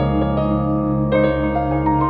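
Soft background piano music, with single notes struck about every half second over a held low bass.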